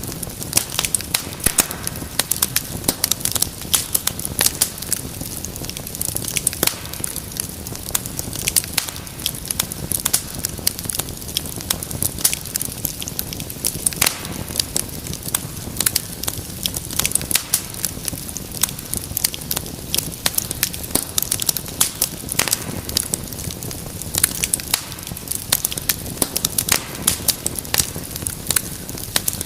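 Wood fire crackling steadily, with many sharp irregular pops and snaps over a low rumble of the flames.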